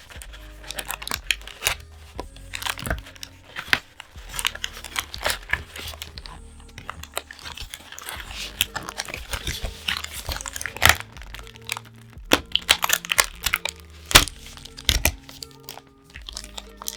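Foil trading-card booster wrapper crinkling and tearing, with cards being handled in sharp crackles and clicks, over quiet background music with held notes.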